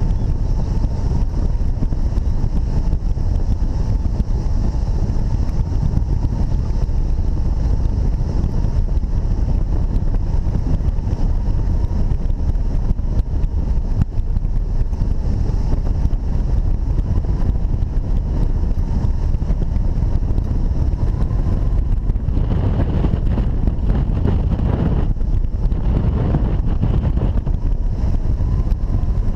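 Heavy wind rushing over the camera microphone on a hang glider, a steady low roar with irregular stronger gusts in the last several seconds.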